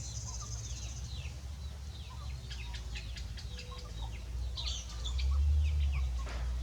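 Birds chirping: many short, high, falling chirps in quick succession, over a steady low rumble that swells about five seconds in.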